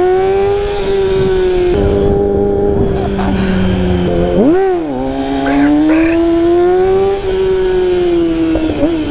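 Yamaha R6 sport bike's inline-four engine pulling steadily under way, its pitch climbing slowly through the gears. About four and a half seconds in the engine note briefly swoops up and drops back before climbing again.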